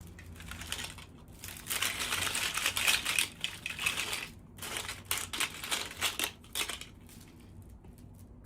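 Packaging being crinkled and rustled by hand while a toy is unboxed: two long stretches of crackly rustling, the first loudest, fading out about a second before the end.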